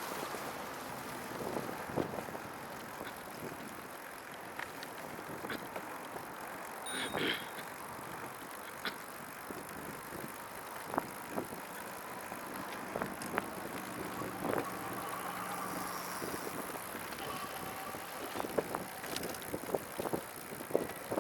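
Catrike 700 recumbent trike rolling along at speed: steady tyre and wind noise, with scattered clicks and knocks.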